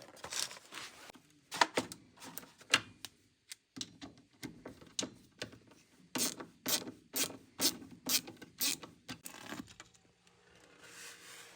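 Hand ratchet (Wera) clicking in short irregular strokes, then a steadier run of about two clicks a second, then stopping near the end.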